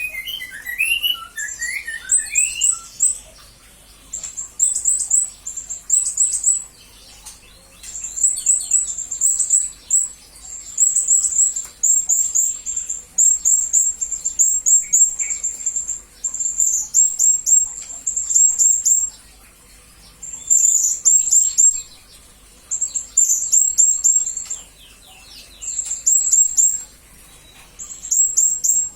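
Blue-crowned hanging parrot (serindit) singing: repeated runs of rapid, very high-pitched shrill chirps, each lasting a second or two with short pauses between, with a few lower notes at the very start.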